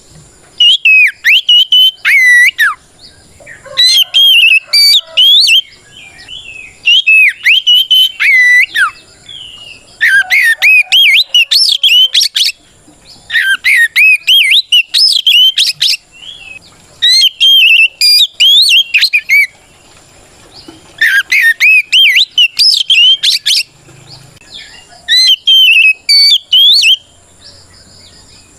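Oriental magpie-robin (kacer) singing its loud full song, the challenge song that calls out a rival. It comes in bursts of rapid whistled phrases about every three seconds, each a couple of seconds long, with short pauses between them.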